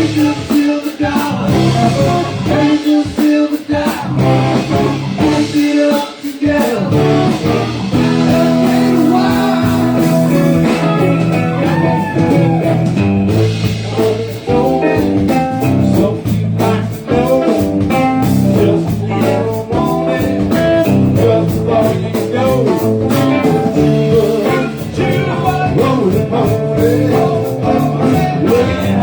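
A band playing blues rock, with guitar leading over a steady drum beat.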